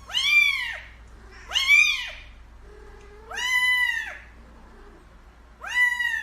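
A cat meowing four times, each meow rising and then falling in pitch, about a second and a half apart.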